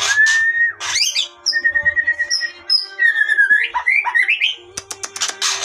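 Young white-rumped shama singing a varied run of clear whistles, a trilled note and quick rising sweeps, with a few sharp clicks near the end.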